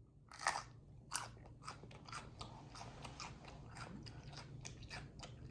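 Close-miked biting and chewing of a crunchy jalapeño pepper: two crisp bites, then a run of smaller crunches several times a second.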